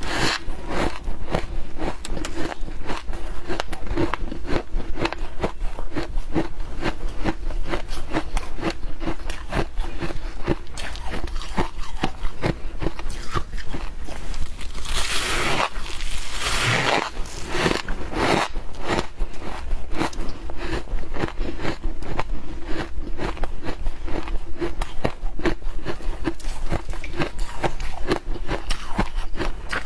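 Humidifier ice being bitten and chewed, a dense run of crisp crunches and crackles with louder crunching about halfway through.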